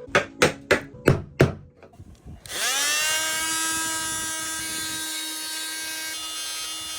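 Five quick knocks, then a power tool spins up, rising in pitch, and runs at a steady whine for about five seconds.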